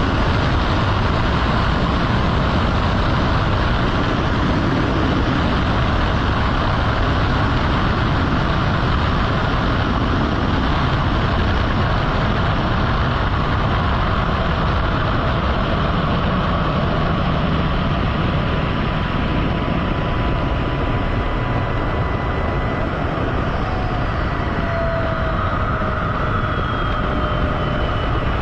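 Jet noise from Blue Angels jets: a steady, loud rush. In the last few seconds a whine falls in pitch as a jet passes.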